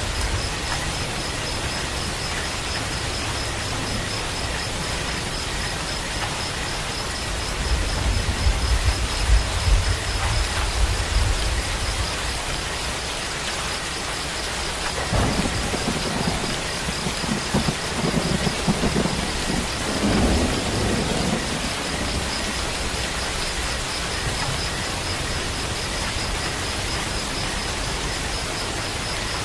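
Steady rain falling, a continuous even hiss, with thunder rumbling low twice: once about a third of the way in and again, more strongly, just past the halfway mark.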